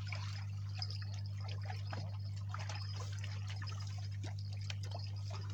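Water trickling and splashing in small irregular bursts over a steady low hum.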